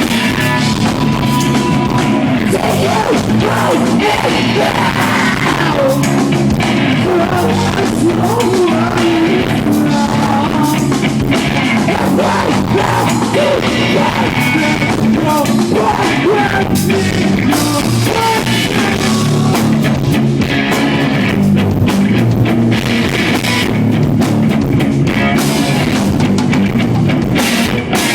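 A live rock band playing loud, with electric guitars and a drum kit, picked up by an iPod's built-in microphone in the room.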